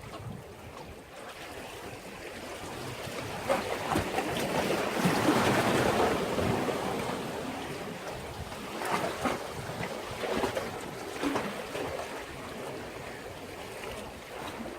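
Sea waves breaking and washing against a breakwater: one large wash builds to a peak about five or six seconds in and slowly fades, followed by a few smaller splashes.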